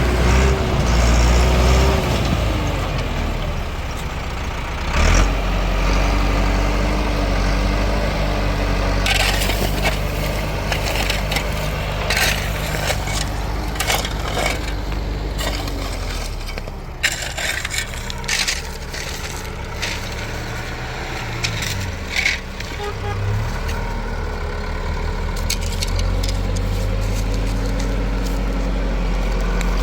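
Tractor engine running steadily, its pitch rising and falling several times, with scattered knocks and clatter.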